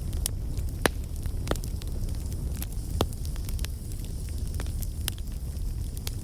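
Bonfire burning, crackling with many small snaps and a few louder pops of the wood, the loudest about three seconds in, over a steady low rumble.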